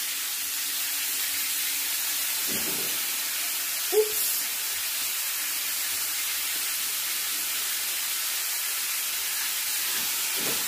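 Sliced vegetables sizzling in hot olive oil in a metal pot, a steady hiss, with one sharp knock about four seconds in.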